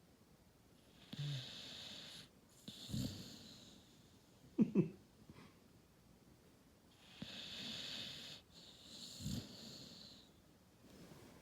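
Cane Corso puppy snoring in its sleep: slow, wheezy breaths in two long cycles, broken by short snorts. The loudest is a double snort a little under five seconds in.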